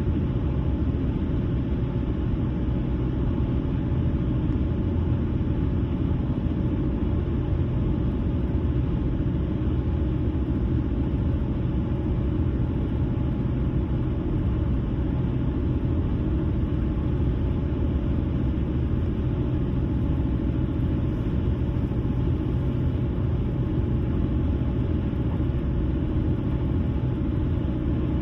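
Car driving at a steady speed: a low, even rumble of road and engine noise that holds unchanged throughout.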